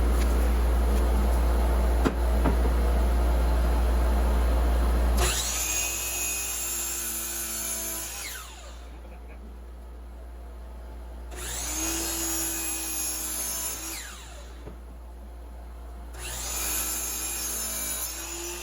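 DeWalt DWS779/780 sliding compound miter saw running and cutting, loud and steady for the first few seconds. After that come three short runs of the saw, each with the blade's pitch falling as the motor winds down, with quieter gaps between them.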